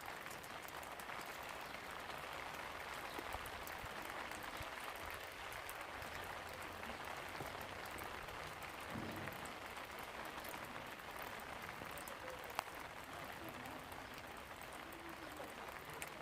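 Steady rain falling, an even hiss of many drops, with one sharp click about twelve seconds in.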